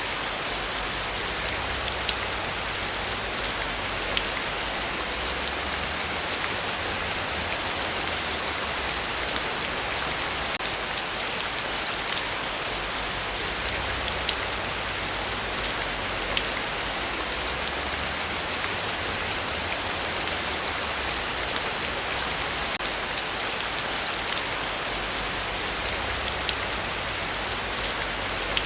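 Heavy rain falling steadily: a dense, even hiss of countless drops, with sharp individual drop ticks throughout.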